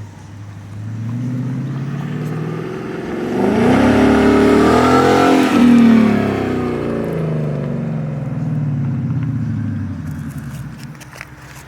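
2016 Ford Mustang GT's 5.0-litre V8 through a Magnaflow exhaust, rising in pitch and loudness under acceleration to a peak about five seconds in, then dropping in pitch and fading away.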